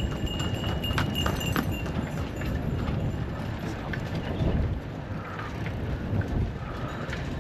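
Riding noise from a bicycle on a rough island road: wind buffeting the microphone and the bike rattling, with a few sharp clicks about a second in.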